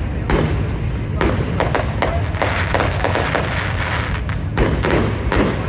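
Fireworks going off: an irregular string of sharp bangs and pops, some in quick succession, over a steady low rumble.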